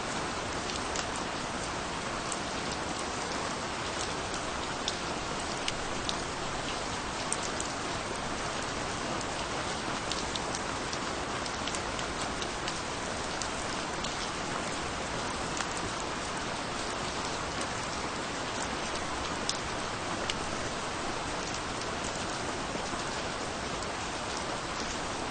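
Steady rainfall, a dense even hiss with many individual drops ticking sharply on a surface throughout.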